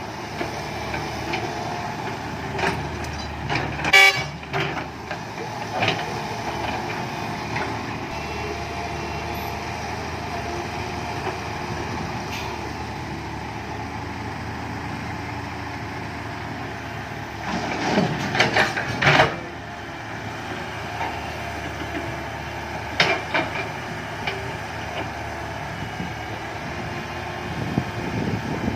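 Six-wheel dump truck running steadily, with a few short, loud bursts of noise: one about four seconds in, a cluster a little past halfway, and one more later.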